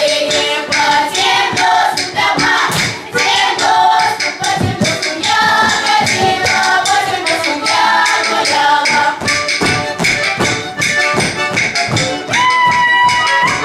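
A song with singing voices over musical accompaniment and a steady, busy percussive beat, ending on a long held note.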